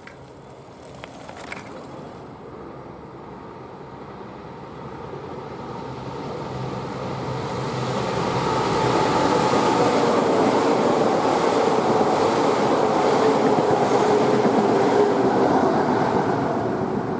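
Electric commuter train approaching and running past at speed, growing louder from about four seconds in and loudest over the second half, with a motor whine that slowly falls in pitch as it goes by.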